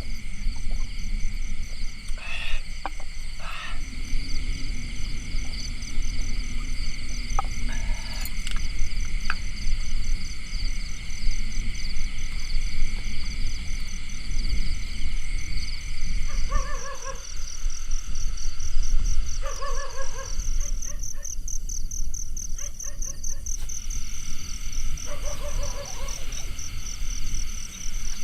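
Night forest sounds: insects shrill steadily in several high pulsing tones over a low, even background noise. In the second half, a short pitched animal call, frog-like, repeats about four times, a few seconds apart.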